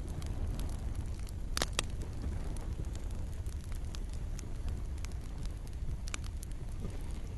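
Campfire crackling: scattered sharp pops and snaps over a steady low rumble, with two loud pops close together about a second and a half in.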